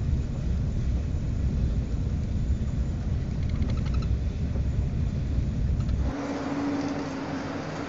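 Steady low rumble of a moving high-speed train. About six seconds in it cuts suddenly to a lighter steady hiss with a single low hum.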